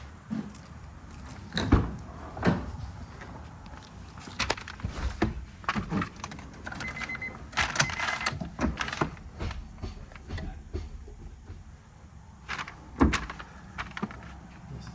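Scattered knocks, clicks and thumps from a car's door and keys being handled, with a short whirring sound about halfway through.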